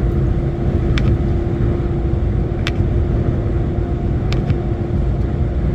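Steady low engine and road rumble of a truck heard from inside the cab while driving, with a constant hum and a few short, sharp ticks.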